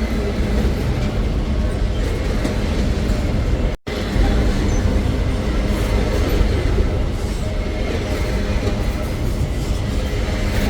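Freight train rolling past, a steady, loud rumble of wheels on rail. The sound cuts out for an instant about four seconds in.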